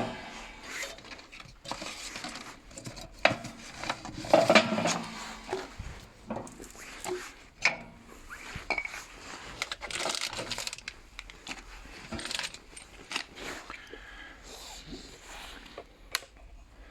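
Irregular metal clinks, knocks and scrapes as the cast-iron parts of a Jotul F220 wood stove are handled and its air-control slider is moved.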